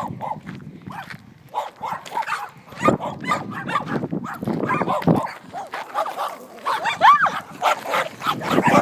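Several little dogs barking and yapping over one another in short, irregular bursts, with a high yelp that rises and falls about seven seconds in.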